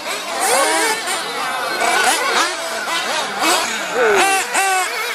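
Several 1/8-scale nitro model racing buggies' small engines racing at once, their high-pitched whines rising and falling over and over as they rev and back off.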